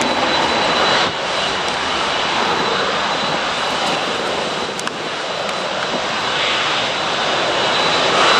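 Boeing 757 twin jet engines running: a steady rushing noise with a thin high whine over it, easing slightly about a second in and building again near the end.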